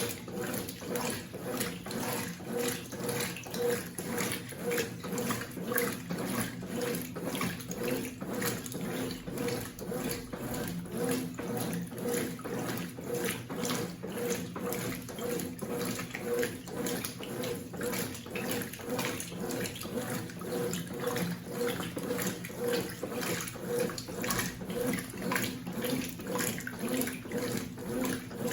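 Consul 8 kg CWC08 washing machine churning a wash load, with water sloshing in rhythmic pulses of about two a second over a steady motor hum.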